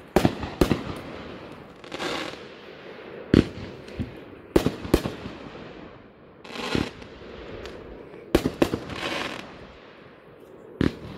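Consumer aerial fireworks firing: clusters of sharp bangs from shells bursting overhead, several in quick succession, with hissing rushes of noise between the clusters.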